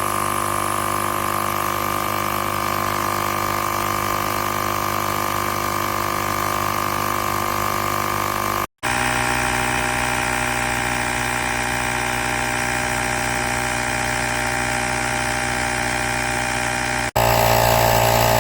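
AstroAI L7 portable electric air compressor running with a steady motor hum. The sound drops out for an instant twice, about halfway and near the end, and comes back slightly changed in tone each time, louder after the second break.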